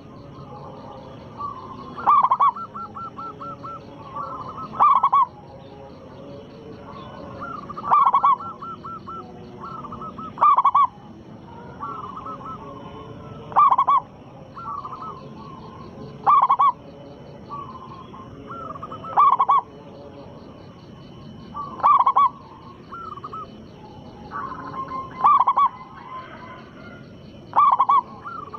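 Zebra dove (perkutut) singing its cooing song over and over, a loud phrase about every three seconds with softer rolling coos between.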